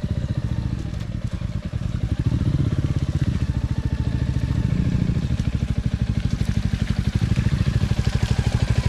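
Motorcycle engine running at low revs with a steady, even pulsing beat as the bike crawls through wet clay mud, the revs swelling slightly a couple of times.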